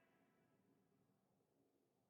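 Silence: the gap between two music tracks after the first has faded out.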